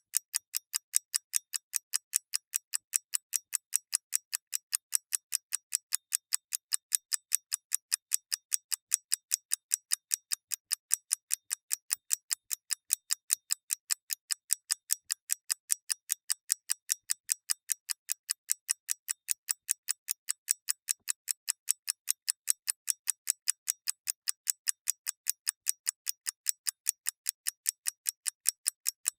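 Clockwork ticking: sharp, thin, evenly spaced ticks, a few per second, keeping a perfectly steady rhythm.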